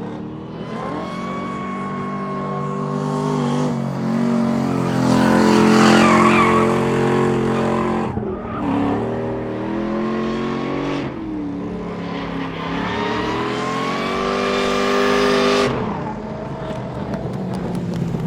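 Drift cars' engines held at high revs while the tyres squeal in a slide. It is loudest about six seconds in; the engine note dips, climbs again, then drops off suddenly a couple of seconds before the end.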